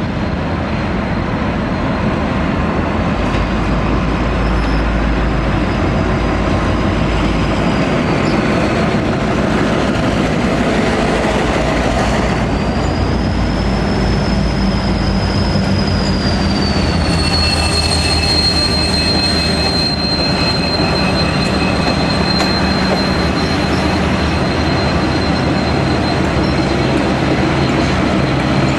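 V/Line locomotive-hauled passenger carriages rolling slowly over pointwork, with a thin high wheel squeal that wavers in pitch and then holds steady through the second half. Diesel locomotive engine running and wheel rumble underneath.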